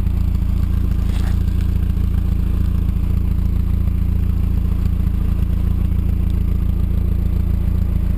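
Mazda MX-5's 1.8-litre four-cylinder engine idling steadily through an IL Motorsports cat-back exhaust, a deep, even exhaust note.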